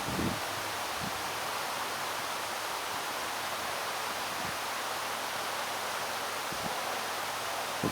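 Steady rushing wind noise, with a few brief low thumps of wind buffeting the microphone.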